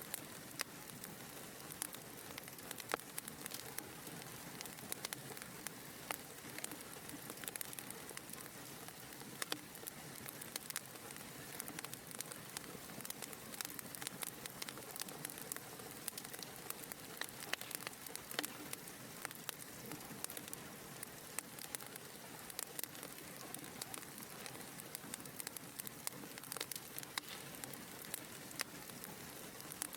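Wood fire burning in a fireplace: a steady soft hiss with frequent small, irregular crackles and pops.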